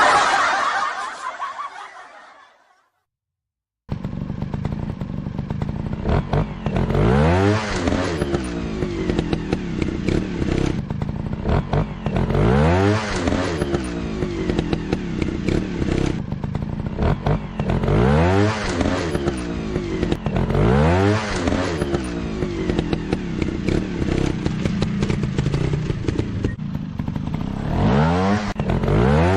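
A sound fades out over the first few seconds, followed by a second of silence. Then a motorcycle engine comes in about four seconds in and runs continuously, revving up and back down repeatedly every few seconds.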